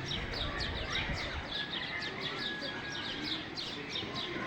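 Birds chirping: a quick run of short, high, downward notes, about three a second, with a few lower, sliding whistled calls mixed in.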